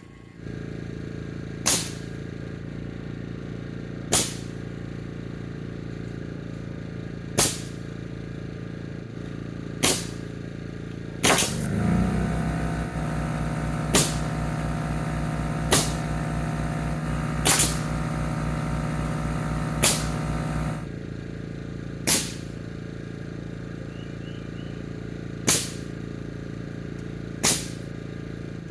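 Framing nail gun firing single shots into lumber about every two to three seconds, a dozen or so sharp cracks in all. A motor hums steadily underneath, and a second, louder motor runs for about nine seconds in the middle.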